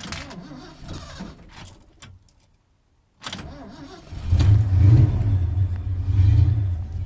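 1978 Ford F-250's engine cold-starting after sitting for a week. The starter cranks for about two seconds without the engine catching, stops, then cranks again; the engine fires about a second into the second crank and runs, swelling louder twice before settling.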